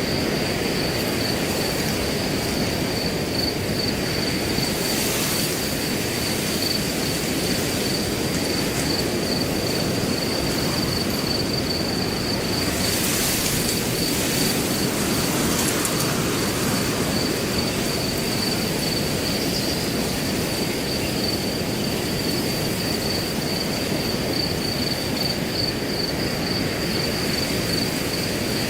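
Wind blowing through grass as a steady rushing noise, with crickets trilling constantly on one high pulsing note. Brief stronger gusts come through about five seconds in and again around thirteen seconds.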